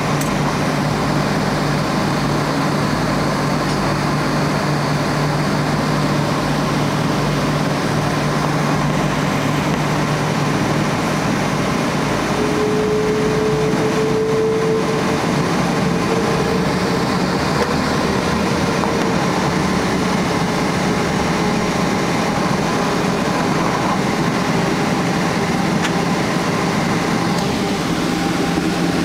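Steady cabin noise inside a Boeing 777-200ER with Rolls-Royce Trent engines: an even rushing rumble with engine hum under it. A higher steady tone joins about twelve seconds in, as the low hum drops away.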